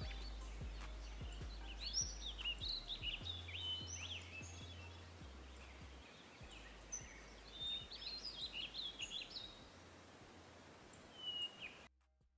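Songbirds chirping and trilling in scattered bursts over a low hum that slowly fades. All sound cuts off suddenly near the end.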